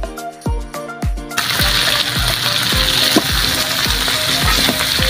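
Background music with a steady beat. About a second and a half in, the loud sizzle of giant freshwater prawns frying in a wok starts suddenly and runs on under the music, while a metal ladle stirs them.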